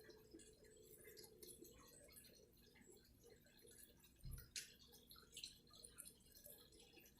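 Near silence: room tone with faint scattered small ticks and crackles, and one soft thump about four seconds in.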